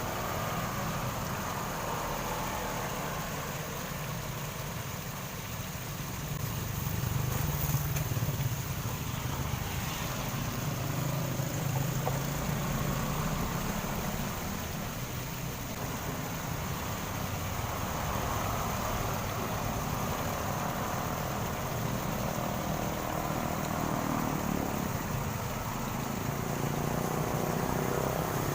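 Water flowing along a channel: a steady rushing noise with a deep rumble underneath and slow swells in loudness.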